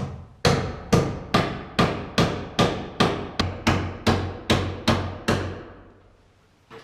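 A hammer striking about a dozen times at an even pace, a little over two blows a second, each with a short ring, then stopping.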